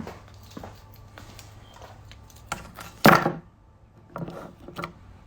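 Irregular knocks and clatter of tools and gear being handled and set down, with one loud clunk about three seconds in and a few more knocks about a second later.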